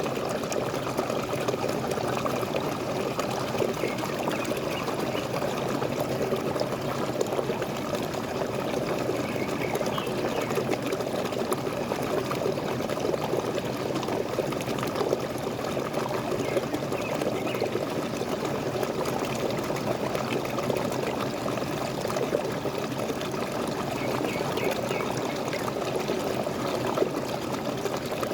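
Waterfall pouring and splashing in a steady, unbroken stream of falling water.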